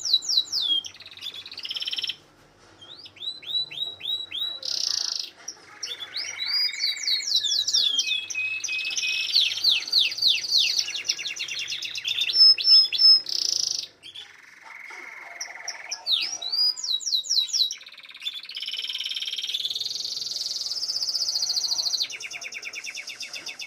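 Domestic canary singing a long song of fast trills and repeated gliding notes, broken by short pauses about two seconds in and again about fourteen seconds in.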